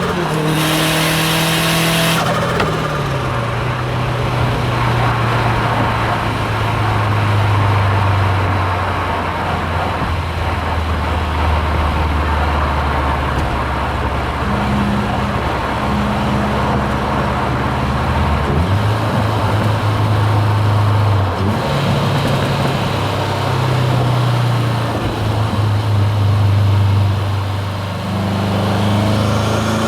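Hybrid-turbo Subaru WRX STI's turbocharged flat-four heard from the driver's seat. At the start the revs fall with a rush of hiss for about two seconds, then the engine cruises at steady revs for a long stretch. The engine note changes about two-thirds of the way in, and the revs climb again near the end.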